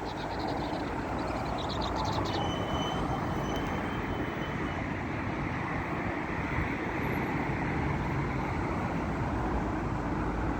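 A small songbird chirping in quick bursts for the first two seconds, then a thin high whistle. Throughout, a steady rumble of traffic-like noise swells slightly and becomes the main sound.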